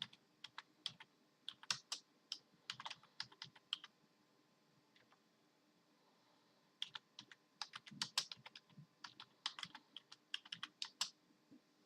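Typing on a computer keyboard: quick runs of key clicks, stopping for about three seconds in the middle and then resuming.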